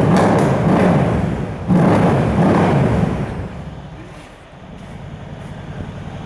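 Mercedes E63 AMG S (W212) twin-turbo V8 running loudly through its tuned exhaust, with a sharp rev about two seconds in. The engine then drops back to a lower, steady idle.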